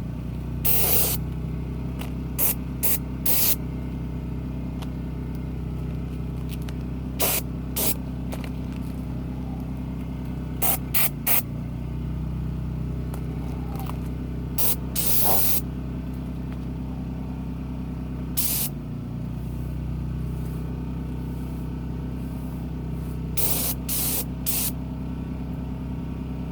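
Oil being sprayed onto tree bark in short hissing spurts, about fourteen in all, mostly in quick runs of two or three with pauses between. A steady low engine hum runs underneath.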